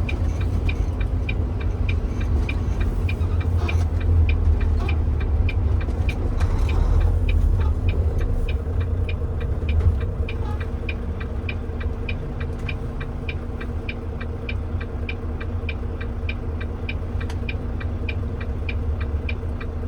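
Truck engine running with a low rumble, heard inside the cab. A turn signal ticks steadily about one and a half times a second for a left turn. The engine settles to a steadier hum about halfway through.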